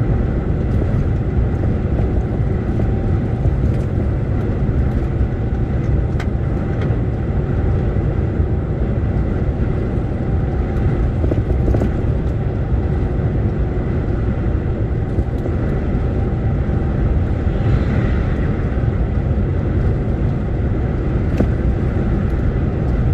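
Lorry driving along the road: a steady engine and road-noise rumble with a few faint clicks.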